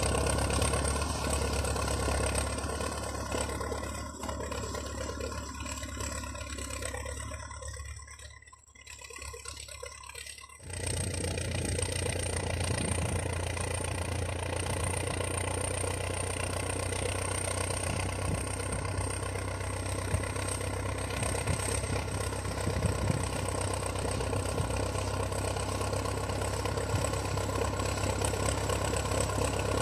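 Heavy diesel engine of a snow-clearing bulldozer or tractor running steadily. The sound sinks for a few seconds about eight seconds in, then jumps back abruptly near the eleven-second mark and runs on at an even level.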